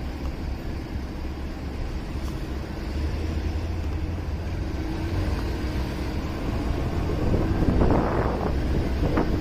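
Motorcycle riding through city traffic, heard from the bike: wind rushing on the microphone over a low engine rumble, with a louder surge of noise near the end.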